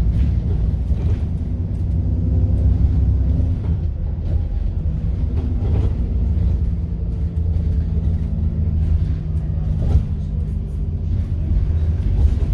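Diesel engine of a First South Yorkshire bus (fleet number 33712) heard from inside the vehicle, running on and off the throttle with its pitch dipping and rising, plus a faint turbocharger whine. Short rattles and knocks from the bus body run through it.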